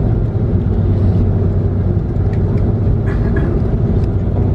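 Airbus A330-300 passenger-cabin noise while taxiing after landing: a steady low rumble of the engines at idle and the rolling airframe, with a constant low hum.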